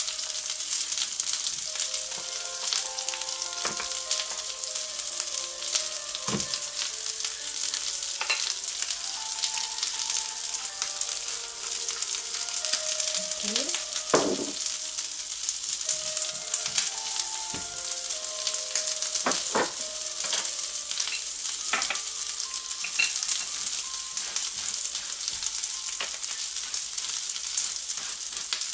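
Halved Brussels sprouts and garlic sizzling in olive oil and butter in a ridged grill pan: a steady frying hiss with scattered pops and crackles.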